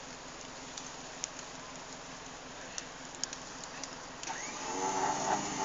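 A Suzuki Jimny 4x4's engine straining on a steep muddy climb. A low steady noise with a few small clicks gives way, about four seconds in, to the engine revving up and growing louder.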